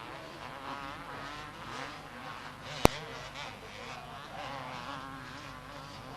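Several 250cc two-stroke motocross bikes racing, their engines buzzing and rising and falling in pitch as the riders work the throttle. One sharp click a little under halfway through.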